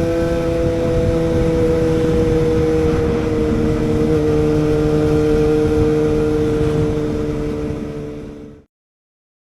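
Yamaha FZ6N's inline-four engine running at steady revs through a Beowulf exhaust with the dB killer removed, a loud even exhaust note that holds its pitch and fades out near the end.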